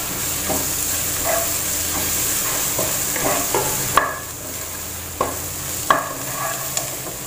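Onions with curry leaves and black pepper sizzling in oil in a non-stick pan while a wooden spatula stirs them, scraping across the pan. A few sharp knocks of the spatula on the pan, one about four seconds in, after which the sizzle is a little quieter.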